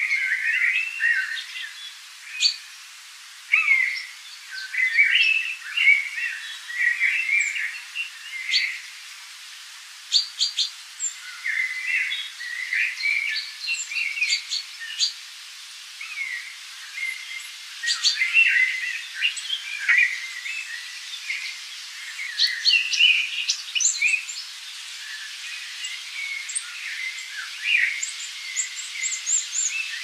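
Birds chirping and calling, a dense run of short chirps and trills in quick succession, with a few thin high notes.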